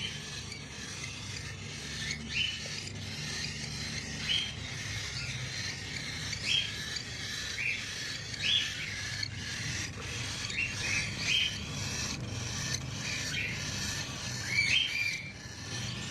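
A bird giving short, high chirps every second or two, coming more often in the second half, over a steady rasping hiss.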